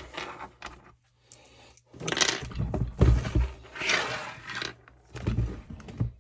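Tools and parts being handled and rummaged through on a workbench: several bursts of scraping and rattling, loudest in the middle, with a few knocks.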